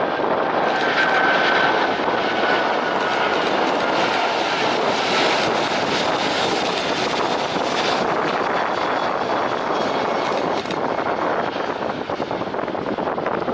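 Airbus A380 airliner on its landing approach: the even rush of its four jet engines, with a high whine that fades after the first couple of seconds.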